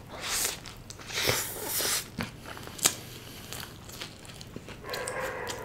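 Close-miked eating of a veg momos burger: a bite into the bun and filling and moist chewing, with a few short sharp clicks.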